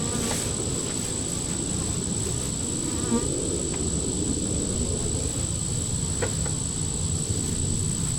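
Honey bees buzzing around an opened Langstroth hive, a steady dense hum, with a few faint clicks.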